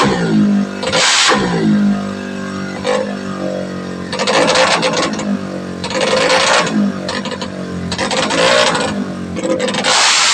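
A 200cc automatic scooter engine being revved in repeated throttle blips, roughly every two seconds, its pitch falling back toward idle between each one.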